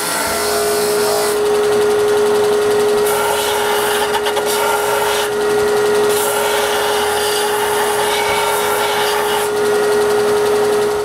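Power sander running steadily with a constant hum, sanding the ends of walnut beading tools round. The hiss dips and returns several times, and the sound stops abruptly near the end.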